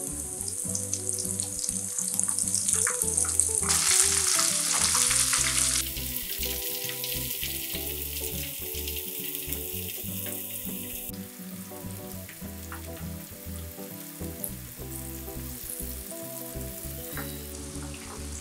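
Flour-coated banana stem strips sizzling as they deep-fry in hot oil in a wok. The sizzle is loudest about four to six seconds in, then settles to a steadier, quieter sizzle.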